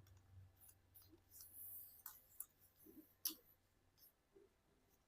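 Near silence, broken by a few faint short crinkles and clicks of origami paper being folded and creased, the clearest a little past three seconds in.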